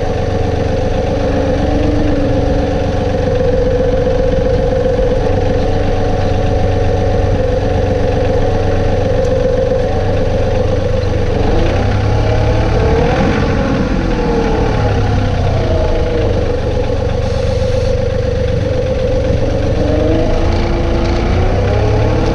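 John Deere 2032R compact tractor's three-cylinder diesel engine running steadily. Its pitch swings up and down about halfway through and rises again near the end.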